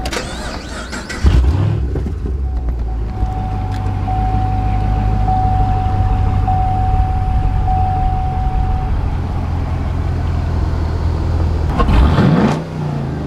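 2010 Camaro SS's 6.2-litre V8 with Borla exhaust being started: it fires with a sudden loud burst about a second in, then settles into a steady deep idle. A dashboard warning chime repeats as a thin steady tone for the first several seconds. A short rev rises and falls near the end.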